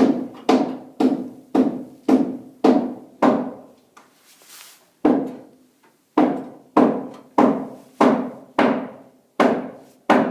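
Repeated ringing metal clanks from a cast-iron fireplace insert, about two strikes a second, each dying away quickly, with a pause and a short scrape around four seconds in.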